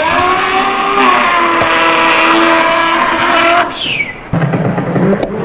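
A man imitating a car burnout with his mouth: an engine-like note rises and holds at high revs for about three seconds, then a short falling squeal, followed by a lower engine-like note.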